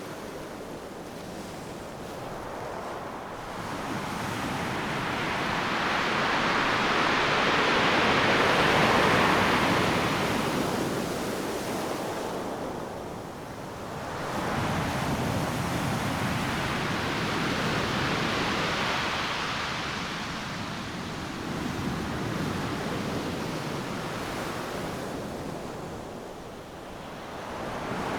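Ocean surf breaking on a beach: a steady wash of rushing water that swells and fades as successive waves come in, with the biggest build about a third of the way in and quieter lulls between sets.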